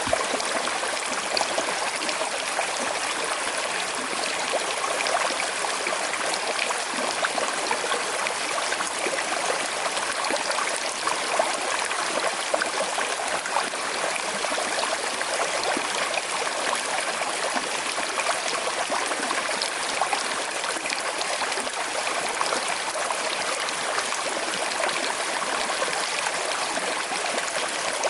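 A small, slowly flowing river running over stones, a steady trickling and gurgling babble of water.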